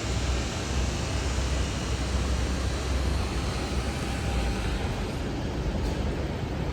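Steady city street traffic noise: a continuous low rumble of passing vehicles with an even hiss over it.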